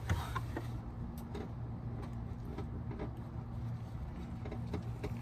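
A steady low hum with a few faint clicks and knocks of tools working at a car's oil drain plug, which is being forced loose.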